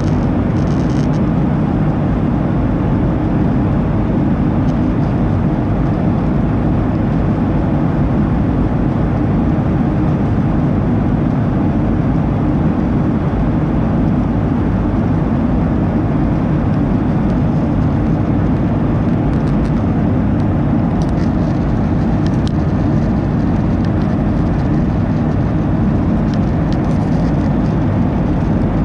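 Steady cabin roar of a Boeing 737-800 airliner in the climb after takeoff: the CFM56 turbofan engines and the rush of air past the fuselage, heard from a rear window seat, deep and unchanging.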